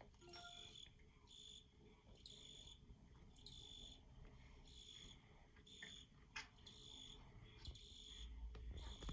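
Field cricket chirping: faint, evenly spaced chirps at about one and a half a second.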